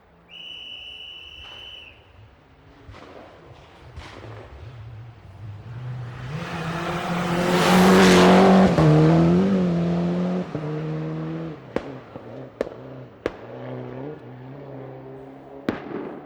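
Racing car engine drawing closer and passing, loudest about eight seconds in, its pitch wavering as it goes by, then running on more steadily. A short high beep sounds near the start, and several sharp cracks come in the last few seconds.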